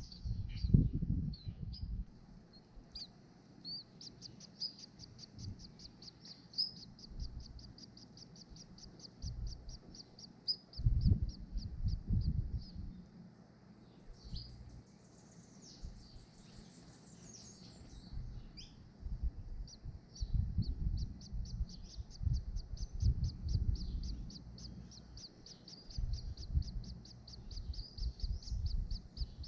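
Birds calling: a long, rapid, even series of high chirps, about five a second, which breaks off midway while other birds give sweeping calls, then resumes. Bursts of low rumble come and go throughout and are the loudest sounds.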